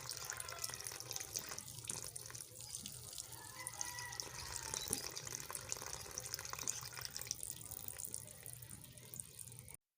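Faint sloshing and trickling of shallow lake water, with many small clicks and drips. It cuts off suddenly just before the end.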